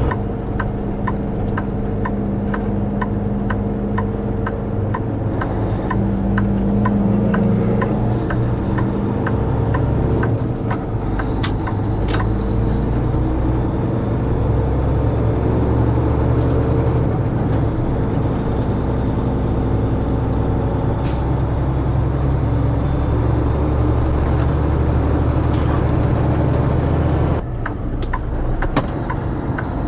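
Tractor-trailer's diesel engine running steadily under way, hauling a heavy lowboy load. A light regular ticking, two or three a second, runs for the first third. The engine note changes briefly near the end, as at a gear change or lifting off the throttle.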